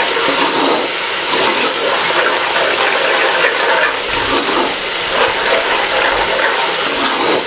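Spice masala frying in oil in a pot, sizzling steadily while a metal ladle stirs it: the bhuna stage of cooking down the masala.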